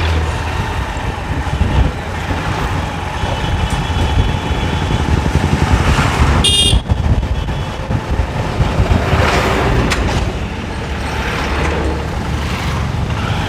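Honda Livo BS6's 110 cc single-cylinder engine running steadily under way, with road and wind noise. A short vehicle horn toot sounds about six and a half seconds in.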